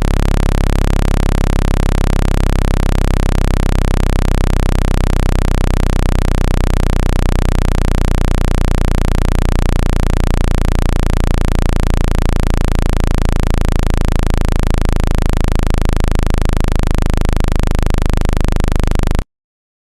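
Loud, steady, very low-pitched electronic hum with a hiss over it, a tone played to shake water out of a phone speaker; it cuts off suddenly near the end.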